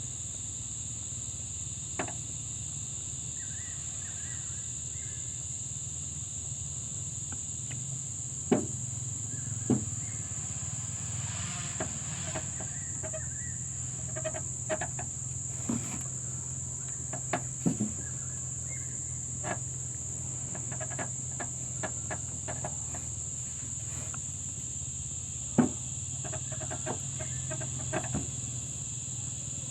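Scattered light clicks and knocks of brake caliper parts being handled while the pistons are worked into the caliper bores, over a steady high-pitched tone and a low hum. A few of the knocks are sharper, with four standing out.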